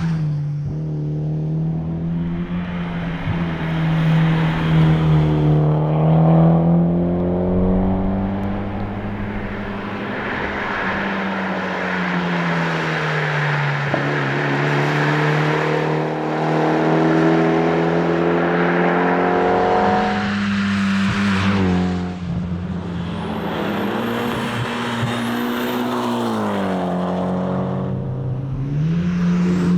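Mitsubishi Lancer Evolution X's turbocharged four-cylinder engine driven hard at rally pace, its revs climbing and falling several times.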